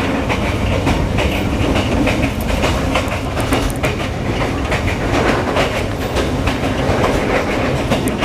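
Train running on the rails, wheels clattering steadily over the rail joints with a dense rumble.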